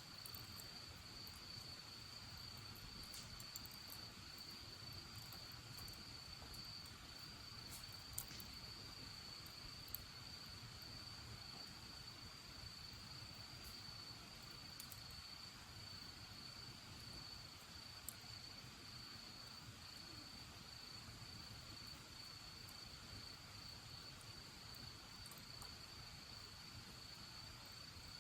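Crickets trilling in one steady, unbroken high tone. Now and then a few faint sharp pops sound, which fit a small bonfire crackling.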